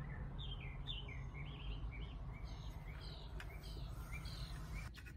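Birds chirping outdoors: a string of short, high chirps over a low steady hum. A few quick scratchy scrapes begin near the end.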